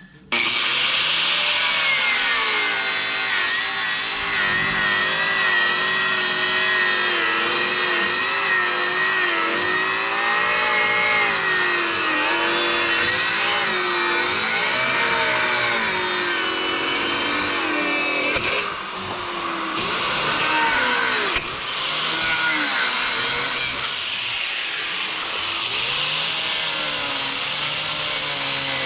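Electric angle grinder running and cutting a strip out of a rubber mud flap, its whine wavering in pitch as the load changes and dipping briefly twice after the midpoint.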